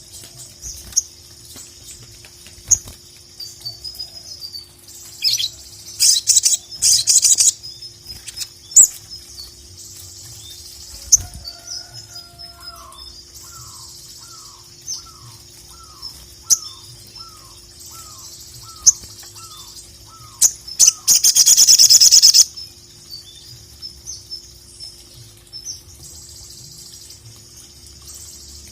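A sogok ontong (sogon), a spiderhunter, singing: high-pitched chattering and trilling calls, with loud rapid bursts about a quarter of the way in and again near the end. In the background, another bird repeats a short falling note about a dozen times, over a faint steady hum.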